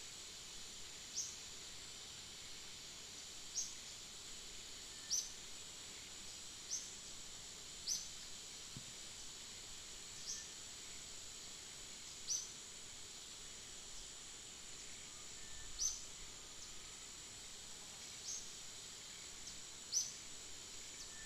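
Outdoor ambience: a steady high-pitched hiss like insects droning, with short high chirps repeating every one to two seconds.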